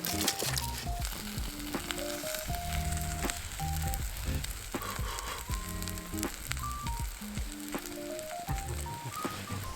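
Background music with a stepping melody and bass line, over a steady sizzling hiss with scattered crackles, as of food frying at a campsite.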